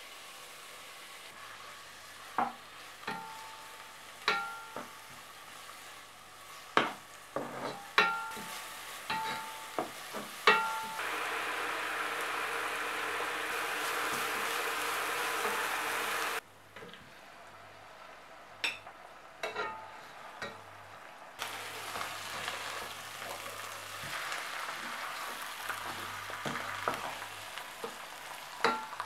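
Grated onion and crushed garlic sizzling as they sauté in a nonstick pot, with a wooden spoon stirring and knocking against the pot in short, sometimes ringing clacks. About halfway through the sizzle grows louder for a few seconds, then drops back suddenly.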